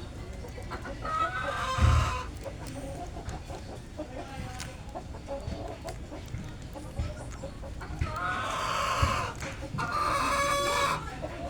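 Bird calls in the background: a few drawn-out pitched calls, one about a second in and a longer pair near the end, with faint knocks between them.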